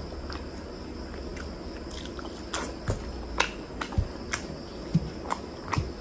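Close-miked chewing of chicken gizzard and liver curry with rice, with sharp wet mouth clicks and squelches coming thick from about two and a half seconds in.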